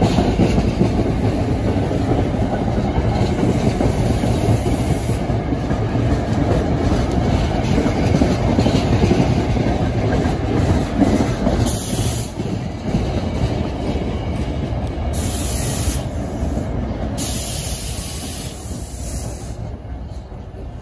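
NJ Transit Comet passenger coaches rolling past on the rail with a steady rumble of wheels, slowing as they come into the station. The rumble fades over the last few seconds, with short high hisses a few times in the second half.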